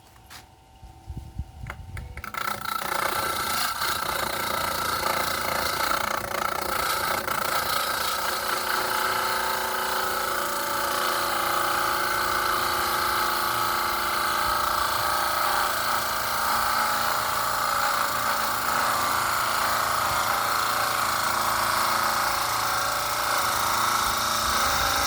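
Electric power tool switched on about two seconds in, then running steadily with a high whine as it cuts.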